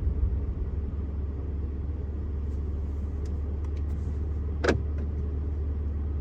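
Steady low drone from a 2024 BMW M4 Competition running, with its twin-turbo straight-six and the car's noise sitting deep and even, and one short sharp click about four and a half seconds in.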